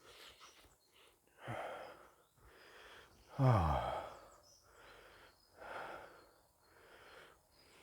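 A man breathing out in heavy, audible breaths about every two seconds, with a loud voiced sigh falling in pitch about three and a half seconds in.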